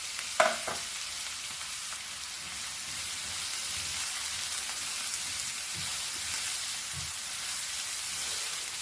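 Chopped onions sizzling steadily in hot oil in a non-stick frying pan, stirred with a silicone spatula. A single sharp tap about half a second in.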